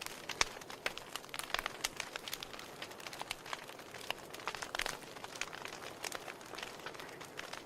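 Wood fire in a fireplace crackling: logs pop and snap irregularly, several sharp cracks a second, over a soft steady hiss of the flames.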